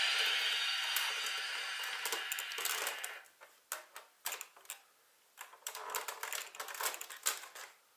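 An electronic toy's noisy sound effect fading out over the first three seconds, then a run of light, irregular plastic clicks and rattles for about four seconds.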